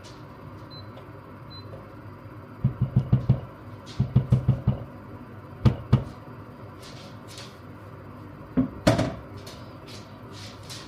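Runs of quick, dull knocks: about five in a row, then five more a second later, then a pair, and another pair near the end.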